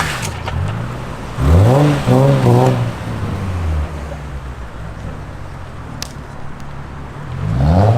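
Car engine idling, blipped once about a second and a half in, with the revs rising and falling for about a second before settling back to idle, and starting to rise again near the end. A single sharp click about six seconds in.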